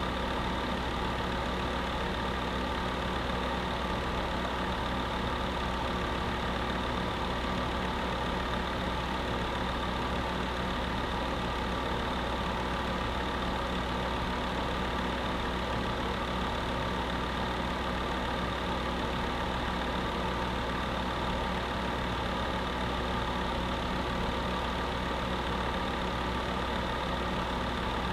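Electric space heater running steadily: an even whir of air with a constant motor hum.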